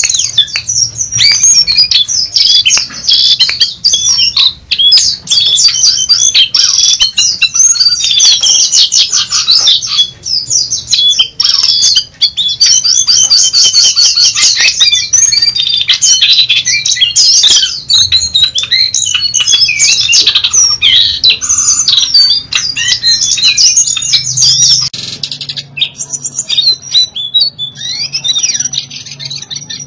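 A jongkangan (brown cingcoang) singing at full tilt: a fast, nearly unbroken stream of high chirps, trills and squawky notes. Near the end the song thins out and gets quieter.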